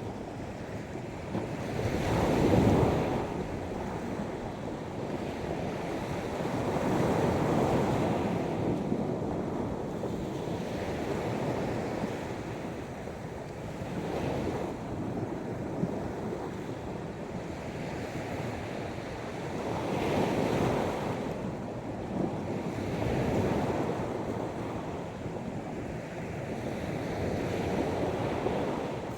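Sea waves breaking and washing up a sandy beach, swelling in and falling back every few seconds. The biggest surge comes about two and a half seconds in.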